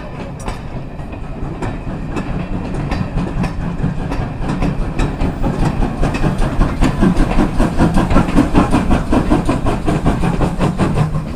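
A train moving past close by, with a quick regular rhythm of beats over a steady low hum. It grows louder to its loudest about eight seconds in, then drops away near the end.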